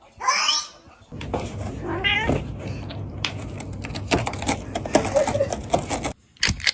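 A domestic cat meowing twice: a short high call near the start and a second call falling in pitch about two seconds in, followed by scattered clicks and knocks.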